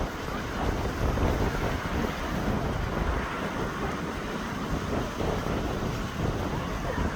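Strong wind buffeting the microphone: a dense, gusty rumble that rises and falls without a break.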